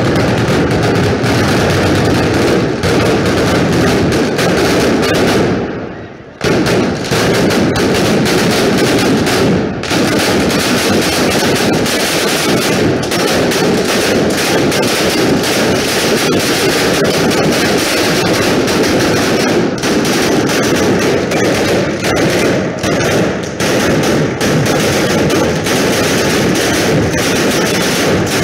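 New Year's Eve fireworks and firecrackers going off in a dense, continuous barrage of rapid bangs and crackles, like machine-gun volleys, with a brief lull about six seconds in.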